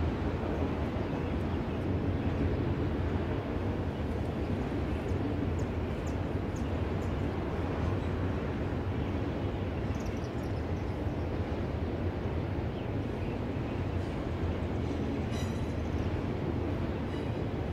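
Freight train passing, a steady low rumble of wagons rolling over the rails, with a few faint high clicks and squeaks.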